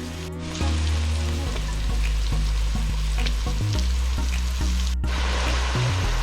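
Vegetables and tofu sizzling as they fry in a pan, a steady crackling hiss with a brief break about five seconds in.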